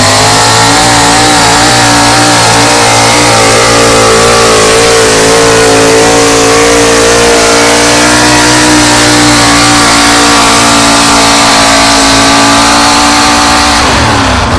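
Pickup truck engine (a 1996 Ford F-250) held at high revs under heavy load while dragging a pulling sled, very loud and steady, with the revs climbing slightly at first and then falling off sharply near the end as the pull ends.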